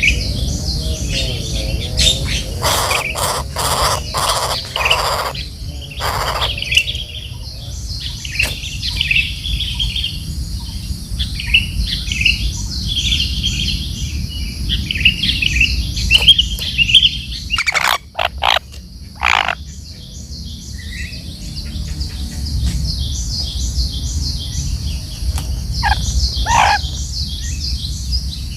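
Birds chirping and calling over and over in short repeated notes, with a few louder sharp calls or knocks near the start and again around the middle, over a steady low rumble.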